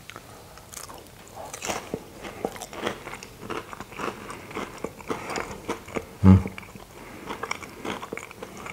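A man chewing a mouthful of Scotch egg, its fried panko breadcrumb coating crunching in small irregular crackles, picked up close by a clip-on microphone. A brief low hum about six seconds in.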